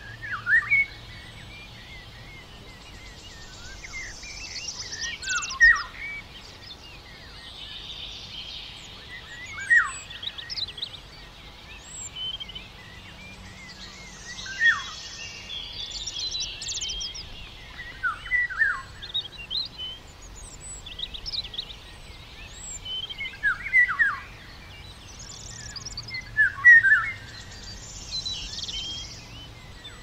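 Small songbirds singing in a forest: short phrases of quick chirps and downward-sliding whistled notes, repeated every four to five seconds over a faint steady outdoor background.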